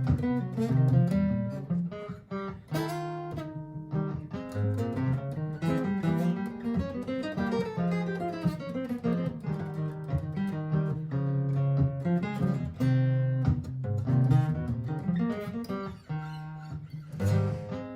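Martin GPCPA4 acoustic guitar playing a steady run of plucked notes and chords over sustained bass notes, an improvisation layered over a looped guitar part from a looper pedal.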